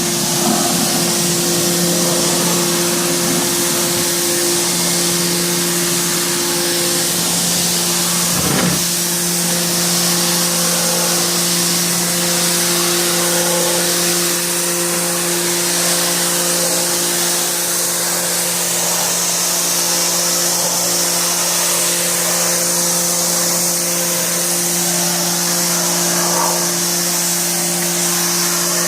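A motor-driven cleaning machine running steadily: a constant hum under a strong hiss, with one short knock about eight and a half seconds in.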